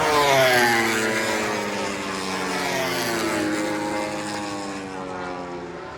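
MotoGP racing motorcycle's four-cylinder engine going past at high revs, loudest about half a second in, then its pitch falling steadily as it moves away and fades.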